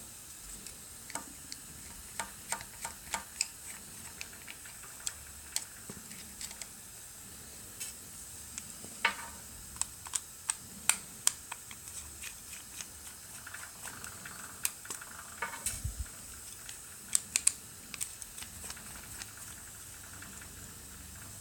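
Small screwdriver undoing the screws of a Logitech M570 trackball's plastic case: scattered light clicks and scrapes of the driver and screws against the plastic, over a faint steady hiss.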